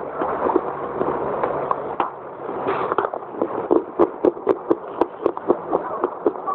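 Close-miked biting and chewing of a dry, crumbly chunk of baked clay, with soft crunching. Dense crackling crunches at first, then from about four seconds in a steady chew of about four crisp crunches a second.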